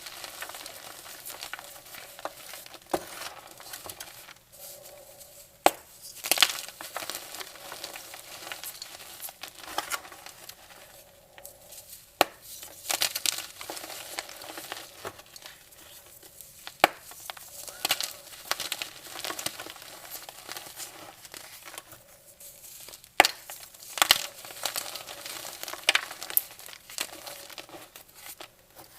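Gym chalk dipped in baking soda paste being crushed and crumbled by hand: irregular crisp crunches, crackles and sharp snaps.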